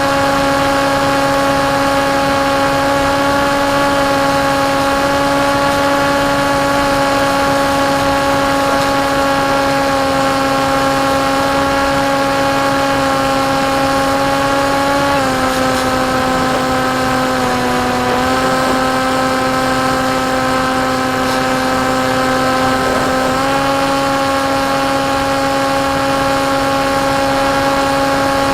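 Electric motor and propeller of a KT Wing flying wing running with a steady whine, recorded on board. The pitch steps down a little about halfway through, dips lower briefly, then climbs back to its first pitch about eight seconds later as the motor speed eases and returns.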